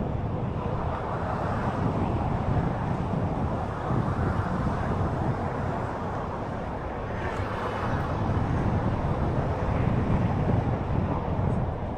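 Steady outdoor riding noise: wind on the microphone and the low rumble of a Onewheel rolling over pavement, rising and falling a little without any distinct events.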